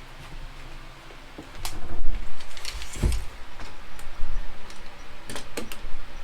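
Scattered sharp clicks and knocks over low thudding handling noise.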